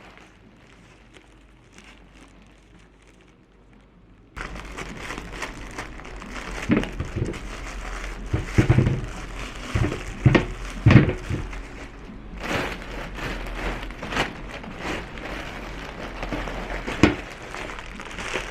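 Plastic shopping bags rustling and crinkling while groceries are handled, with knocks as items are set down. It starts suddenly about four seconds in, after a faint, quiet stretch.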